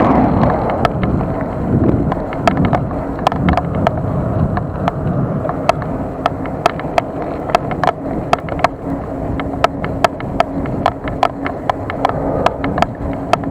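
Bicycle in motion: a steady rumble of tyres and wind with sharp, irregular clicks about two to three times a second.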